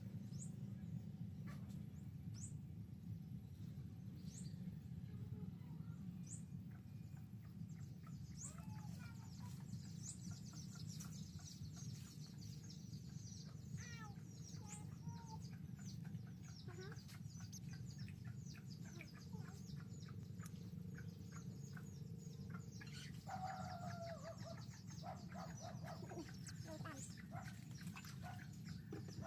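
Society finches calling: many short, high chirps scattered throughout, growing busier after the first few seconds, with a run of lower calls about two-thirds of the way in. A steady low hum runs underneath.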